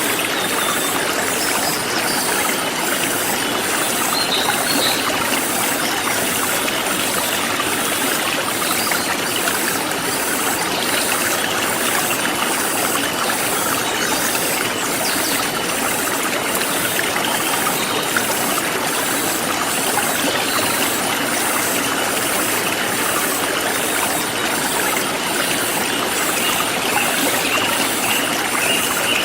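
Forest stream flowing steadily, with a high insect trill pulsing evenly throughout and a few faint bird chirps.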